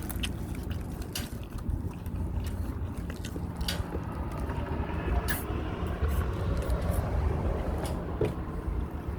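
A person chewing and biting into a double cheeseburger, with small wet mouth clicks, over a steady low rumble.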